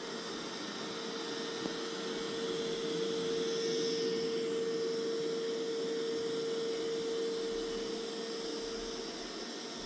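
Mova Z60 robot vacuum-mop running: a steady rushing hiss from its suction fan with a steady hum over it. The hum cuts off about nine seconds in.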